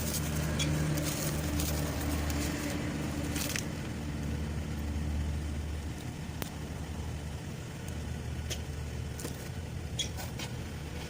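A motor vehicle engine running with a steady low hum that swells and eases, with a few sharp metallic clicks scattered through it.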